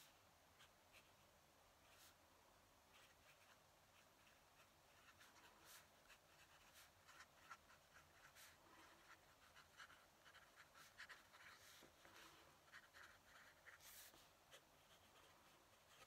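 Fountain pen nib scratching across paper in short, irregular strokes of handwriting, faint, busier in the second half.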